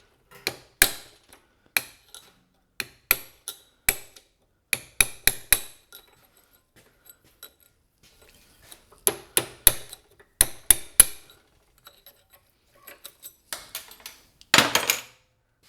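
A hammer striking steel on an axle shaft U-joint: many sharp metallic taps in irregular clusters, as the joint's inner retaining clips are worked out. Near the end comes a longer, rattling metal burst.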